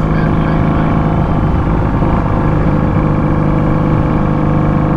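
Straight-piped Honda Magna 750 V4 engine running at a steady cruising speed under way, its loud exhaust holding an even pitch.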